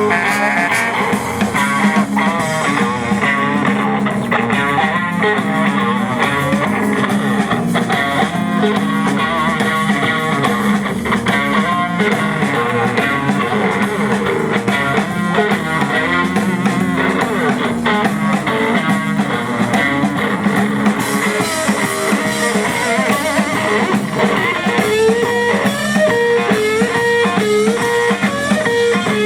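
Live blues-rock band playing an instrumental break: electric guitar picking out a fast run of lead notes over bass and a drum kit.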